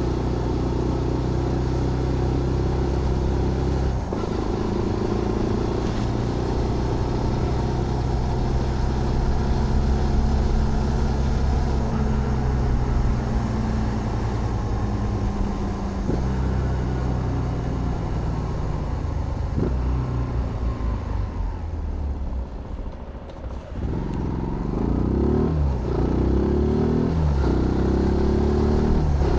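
Zontes GK 125's single-cylinder 125cc engine under way, shifting gears. Its pitch falls for several seconds as it slows to near idle about 23 seconds in, then climbs again through several quick upshifts.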